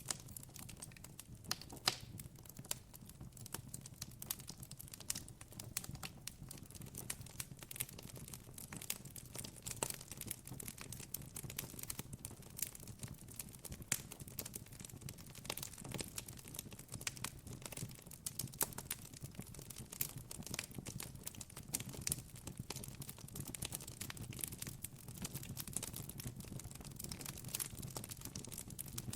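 Campfire crackling: a dense, irregular run of small sharp pops and snaps over a steady low rumble.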